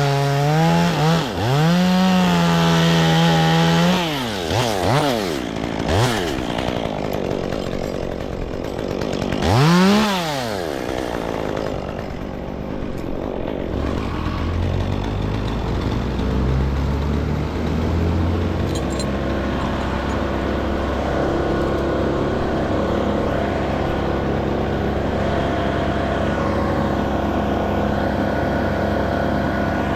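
Two-stroke chainsaw running at full throttle, its pitch wavering as it cuts, then revving down and up several times, with one last rev about ten seconds in. From about the middle on, a lower, steady engine runs on.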